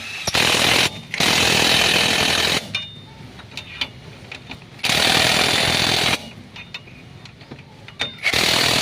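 Power tool run in four short bursts of about one to one and a half seconds each, with pauses between them, typical of an impact wrench on the wheel hub's bolts or nuts.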